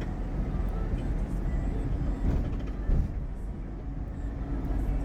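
Bus engine running and road noise heard from inside the passenger cabin, a steady low rumble with a couple of brief jolts near the middle.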